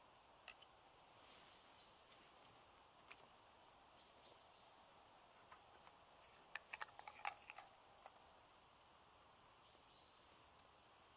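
Faint woodland quiet with a small bird giving a short, high, thin call about every three seconds. A quick cluster of clicks comes a little over halfway through.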